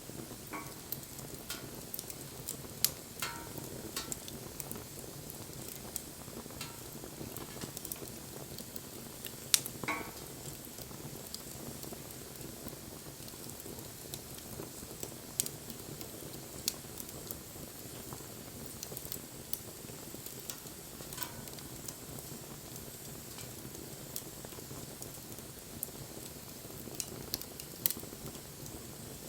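Wood fire burning with a steady hiss and frequent sharp crackles and pops, the loudest about 3 and 10 seconds in.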